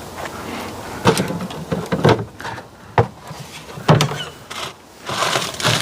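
A series of sharp knocks and clunks, roughly one a second, over a low background hiss, like gear being handled.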